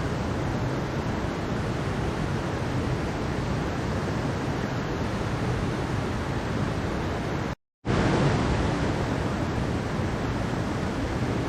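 Mountain stream water rushing steadily over rocks, a dense, even noise. It cuts out to silence for a split second about two-thirds of the way through, then resumes.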